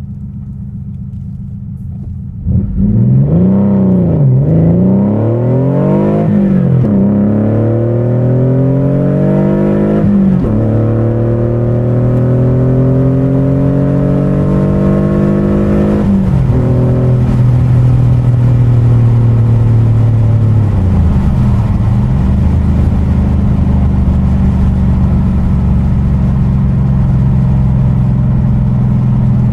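Porsche 911 3.2's air-cooled flat-six through a Fabspeed cat bypass and Super-cup exhaust, pulling hard under full throttle: after a quieter start the engine note climbs in pitch through the gears, dropping sharply at each upshift about 4, 6, 10 and 16 seconds in. It then settles to a steady drone for the last third.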